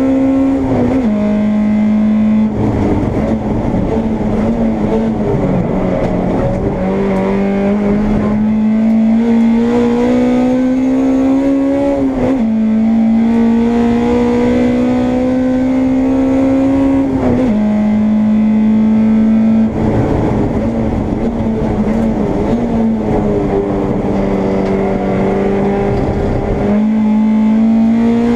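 Onboard sound of a Honda Integra race car's four-cylinder engine at racing speed. The engine note climbs steadily and drops sharply at each upshift, about a second in, at about twelve seconds and at about seventeen seconds. It falls away twice under a rougher stretch as the car slows for corners, then pulls up through the gears again.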